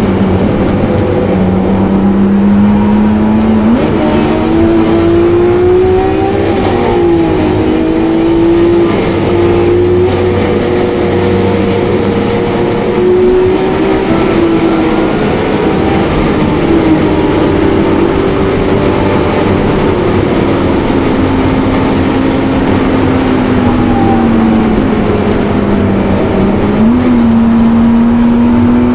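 Supercharged BMW E46 M3's straight-six engine running hard at high revs, heard loud from inside the cabin. Its pitch climbs and falls through several gear changes, with sudden jumps in pitch about four seconds in and near the end.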